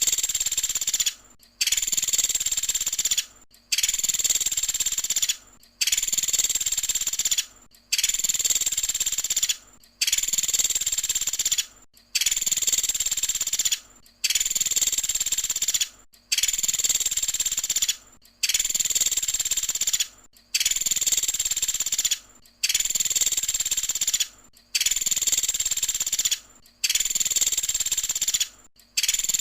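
Pelatuk sampit woodpecker giving its high-pitched 'tembakan' call over and over, each call lasting under two seconds, with a short gap before the next. It repeats about every two seconds, about fourteen times.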